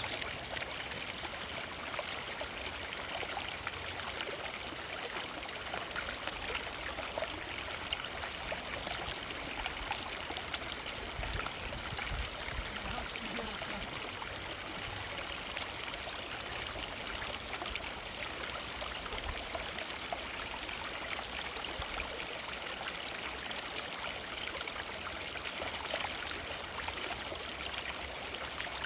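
Forest river flowing steadily over stones, a continuous rushing and babbling with many small splashes and trickles.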